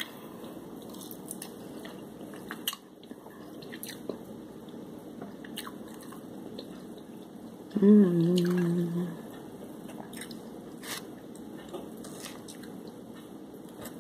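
Close-up chewing and biting of fried shrimp: scattered short crunches and wet mouth clicks. Near the eight-second mark a short hummed "mmm" of about a second is the loudest sound.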